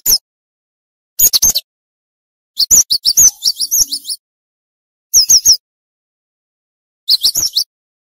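Cinereous tit (gelatik batu) singing in quick bursts: five short phrases of rapid, high, downward-sliding notes, separated by gaps of silence.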